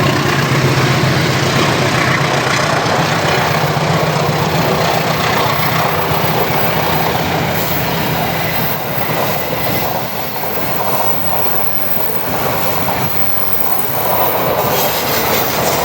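A train passing at close range: a loud, steady rumble of wheels on rails, with a low steady hum through the first half that fades out about halfway, and the noise easing a little in the later seconds.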